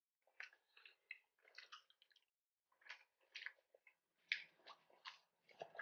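Faint close-up chewing of crispy battered fried seafood: irregular short crunches and mouth clicks.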